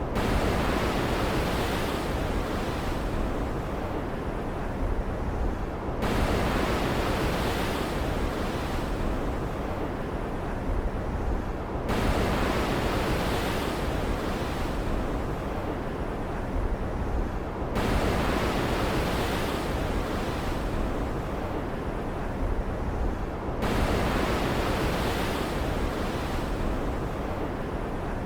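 Storm-sea ambience of ocean waves: a steady rushing noise that surges anew about every six seconds, each surge starting abruptly and then fading.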